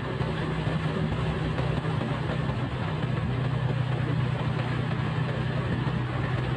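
Motorcycle engine running steadily at a constant pitch, with no change in speed.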